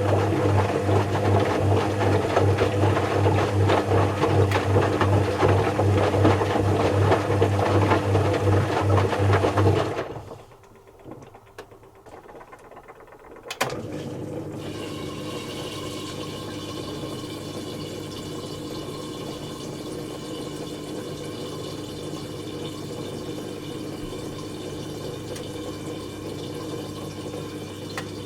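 Zanussi FC1000 compact washing machine running loudly with a strong hum and rattle, which stops about ten seconds in. After a few quieter seconds a click sounds and water starts filling the machine, a steady hiss with a hum beneath it.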